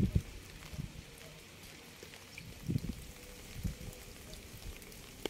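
Steady rain hissing, with a few soft low thuds of heavier drops landing, twice in the middle.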